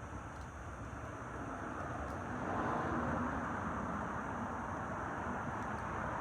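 Wood bonfire burning, with a few faint scattered crackles over a steady low rumbling noise.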